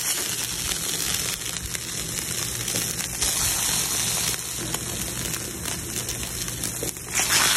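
Slices of bologna sizzling and crackling in their grease on a hot Blackstone flat-top griddle, the sizzle growing louder near the end.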